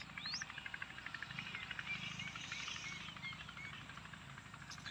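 Soft high chirps from small birds over a fast, even insect-like trill, with a faint low hum underneath: quiet rural ambience.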